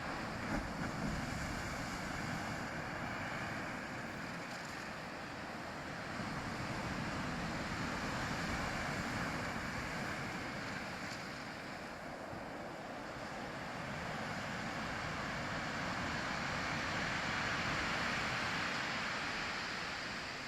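Ocean surf washing continuously, swelling and easing slowly, with two broad swells about ten seconds apart.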